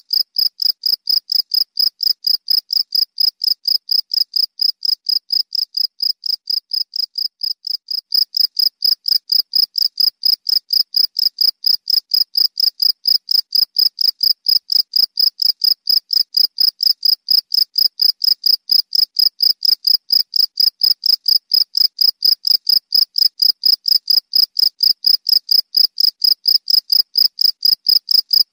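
A cricket chirping: a steady run of short, high-pitched chirps, about four a second, a little louder from about eight seconds in.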